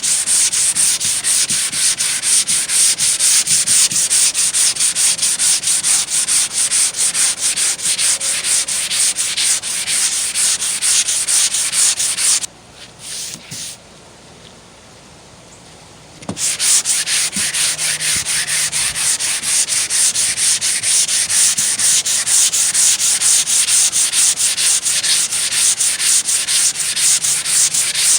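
Hand sanding block with sandpaper rasping back and forth over body filler on a van door, in quick, even strokes. The strokes stop for about four seconds near the middle, then resume.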